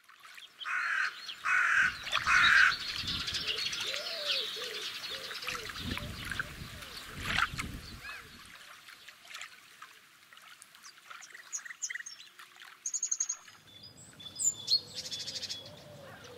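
Outdoor ambience of bird calls and chirps, with three loud, harsh calls in quick succession near the start and scattered chirps later on.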